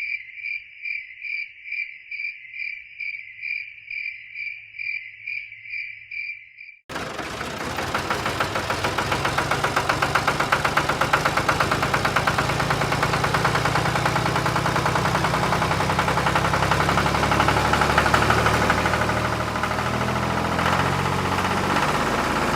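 A cricket chirps evenly, about two chirps a second. About seven seconds in, it gives way abruptly to a loud, steady running engine with a fast even pulse.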